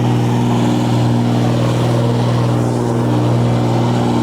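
Vehicle engine running at a steady speed, a loud, even drone that barely changes in pitch.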